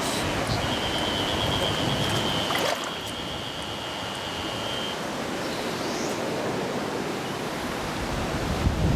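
Mountain stream rushing over rocks, a steady even noise. A thin, high, steady tone runs through it for the first few seconds, and the water sound drops a little in level a little under three seconds in.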